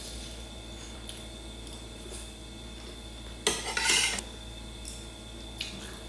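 Cutlery clinking and scraping on a plate while eating, with a few light taps and one louder clatter about three and a half seconds in.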